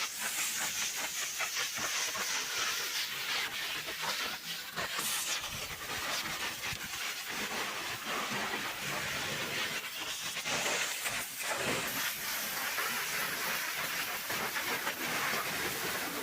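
High-pressure washer spray hissing steadily against a truck's body, its pitch shifting as the jet moves across different surfaces.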